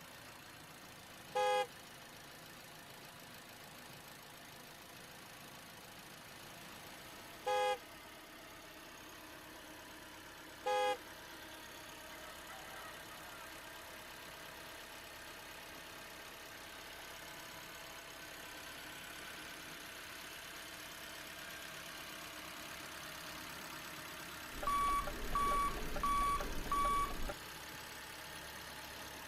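Horn of a remote-control model vehicle giving three short toots, several seconds apart, over a faint steady hum. Near the end come four evenly spaced high beeps, like a reversing warning, over a low rumble.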